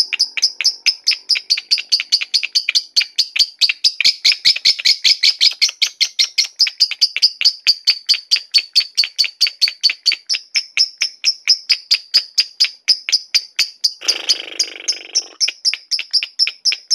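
Lovebird ngekek: a long, unbroken run of sharp, high chirps, about five or six a second, kept up without a pause — the long-duration chatter prized in lovebirds. A brief hissing noise sits under the chirps about fourteen seconds in.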